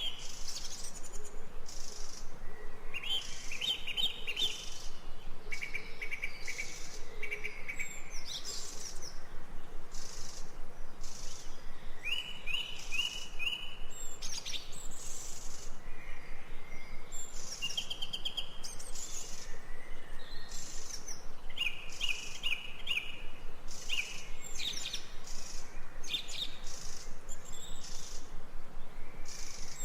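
Songbirds singing from a recorded nature-sound track: short, repeated trilled chirp phrases every second or two, over a fast, even pulsing that runs throughout.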